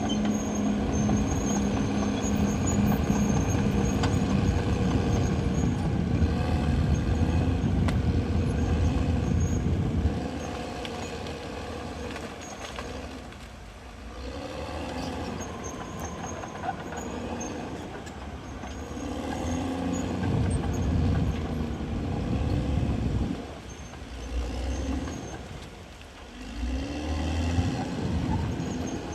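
Caterpillar D6R XL bulldozer's diesel engine running hard and steady for about ten seconds. It then eases off and revs up and down several times.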